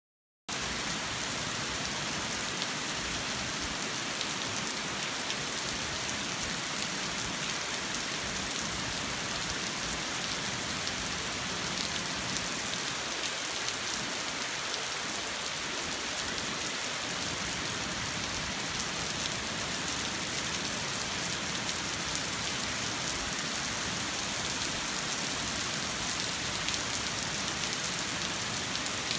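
Steady rain pattering on a street: a dense, even hiss full of small drop ticks, which starts abruptly about half a second in.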